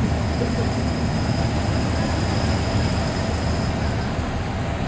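Steady engine and road rumble of a TNSTC deluxe bus under way, heard from inside the cabin, with a faint steady high whine above it.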